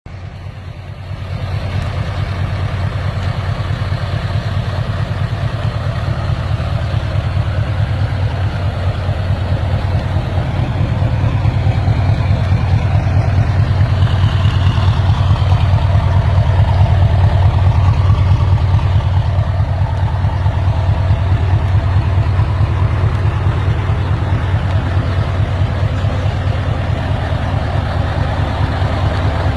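Scania V8 diesel truck engine idling steadily with an even low pulse. It gets louder about a second and a half in.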